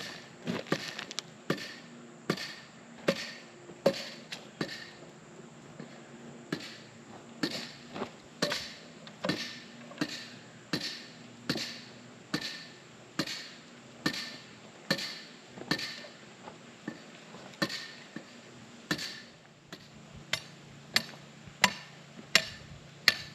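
Hammer striking wood in steady repeated blows while building batter boards, a little over one blow a second, quicker and more uneven at the start and again near the end. A faint steady hum runs beneath.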